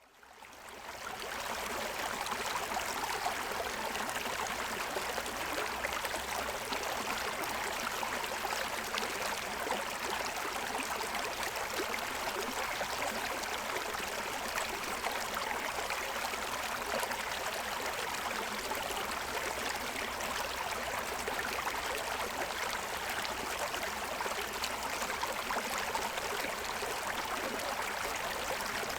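Stream water running and tumbling over the stones of its bed, a steady even rush that fades in over the first second or two.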